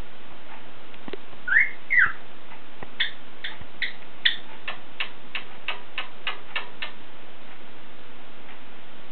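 Cockatiel whistling: two swooping whistle notes, one rising and one falling, about a second and a half in, then a run of about a dozen short sharp notes at roughly three a second, over a steady hiss.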